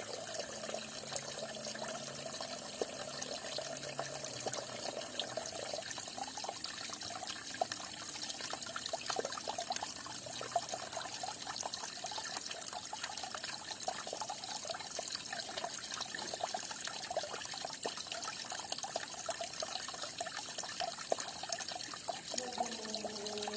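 Falling water running and trickling steadily, with many small splashes throughout.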